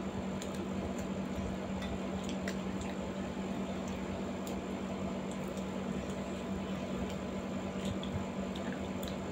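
Close-miked eating sounds: wet chewing and small mouth clicks of people eating momo dumplings and noodles, over a steady low hum.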